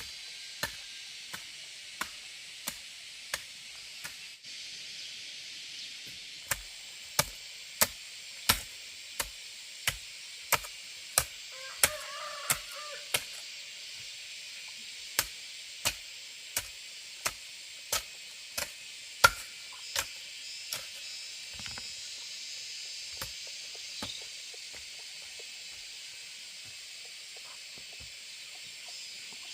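Rhythmic sharp strikes, about three every two seconds, in runs with short pauses between, thinning out in the second half, over a steady high hiss.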